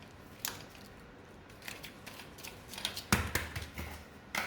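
A few short, sharp clicks and knocks from tools or metal being handled, the loudest about three seconds in.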